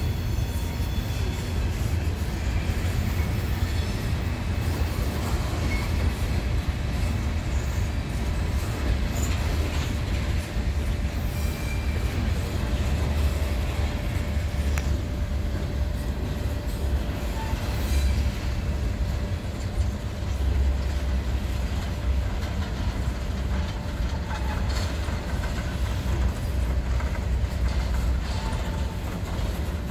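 Empty coal hopper cars rolling past on steel wheels over the rails: a steady low rumble with rattling, and a few brief faint wheel squeals now and then.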